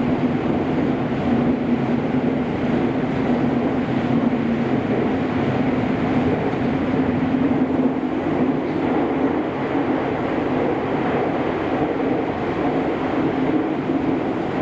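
Cabin running noise of a Kobe City Transportation Bureau 5000 series linear-motor subway train travelling between stations in the tunnel. It is a steady rumble with a constant low hum.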